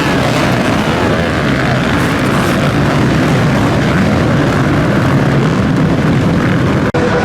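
Several motocross bike engines racing, their pitches rising and falling as they rev and shift, with a brief break in the sound near the end.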